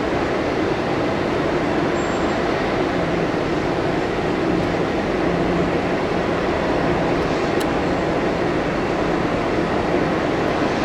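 Airbus A300 twin-engine jetliner's engines running through a landing, a loud, steady rushing noise with a low hum underneath that holds level throughout.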